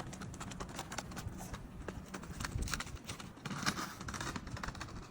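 Quick, uneven footstep-like taps and clicks on a hard surface, played back at double speed, over a low rumble of wind on the microphone, with a brief hissy swell about three and a half seconds in.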